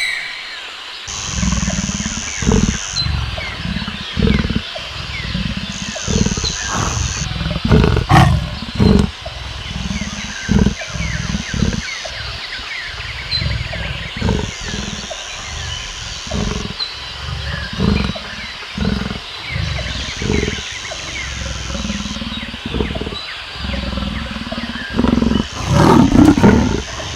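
Lion roaring: a long series of deep roars and grunts, one every second or two, loudest near the end. Behind it a high, steady buzz switches on and off every few seconds.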